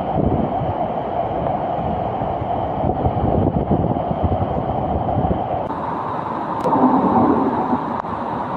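Steady rushing, rumbling noise with wind buffeting the microphone. The sound changes abruptly about six seconds in, at a cut to another clip.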